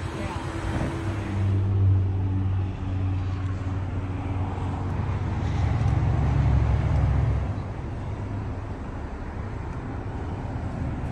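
A motor vehicle engine running close by. Its low rumble and hum swell about a second in and ease off after about seven seconds, leaving steady traffic noise.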